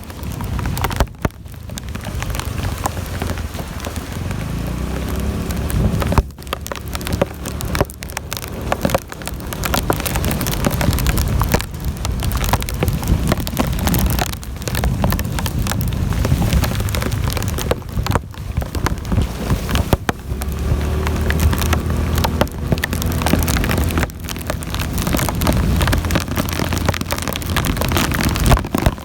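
Heavy rain falling steadily on surfaces: a dense hiss of many drop impacts with a low rumble underneath. It briefly thins out a few times.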